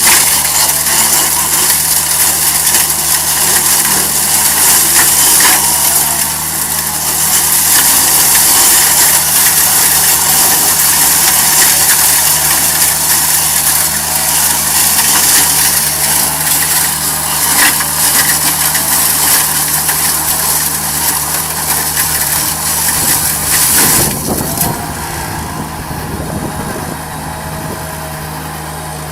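Tree-cutting equipment's engine running at a steady speed with a loud, hissing high-pitched noise over it. The hiss drops away about 24 seconds in, leaving the engine running more quietly.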